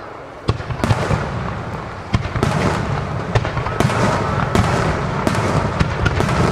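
Star mine fireworks barrage: many shells fired and bursting in rapid succession, a dense run of bangs that starts about half a second in after a brief lull.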